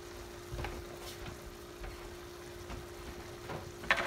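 Garlic shrimp frying gently in a skillet, a soft sizzle under a steady hum, with a few faint clicks and then a louder clatter of kitchenware near the end.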